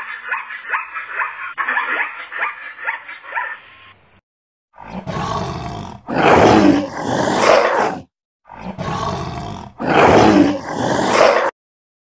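Tiger roaring twice: two long, loud roars, each about three seconds, one starting about five seconds in and the next about a second after the first ends. Before them comes a run of short, quick barking calls that stops about four seconds in.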